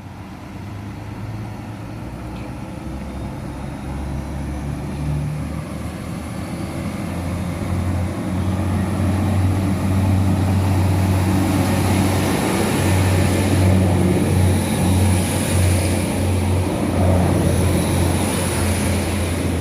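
Northern Ireland Railways 3000-class diesel multiple unit pulling away from the platform. Its diesel engines run up under power, growing louder over the first several seconds and then holding steady as it accelerates past, with a faint high whine above the engine note.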